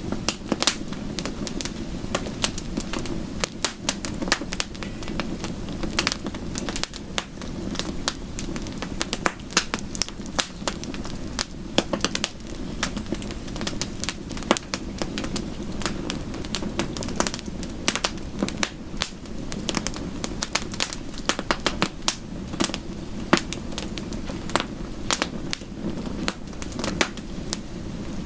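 Wood fire crackling in a fireplace, with frequent irregular sharp pops and snaps over a steady low rush.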